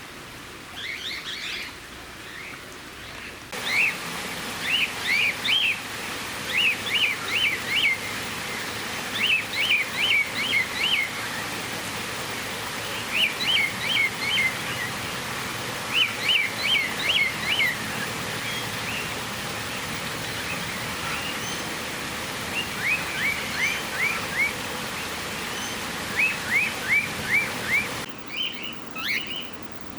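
Cockatiels chirping in quick runs of three to five short high notes, a run every couple of seconds, over a steady hiss that starts a few seconds in and cuts off abruptly near the end.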